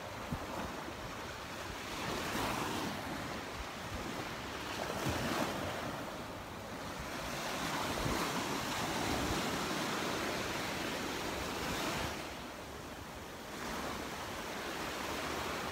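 Gulf surf breaking and washing up the beach in slow swells every few seconds, with wind buffeting the microphone.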